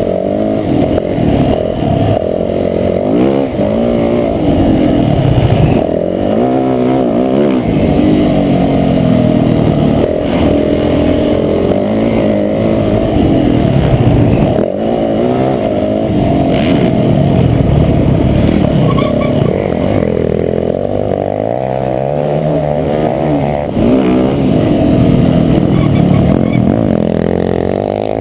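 Motocross bike engine revving up and falling back over and over as it is ridden through the gears, heard muffled.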